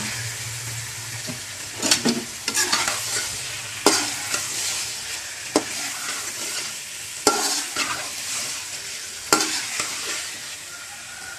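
Curry masala sizzling in hot oil in a cooking pot as it is fried down (bhuna), stirred with a spoon that scrapes and knocks against the pan several times.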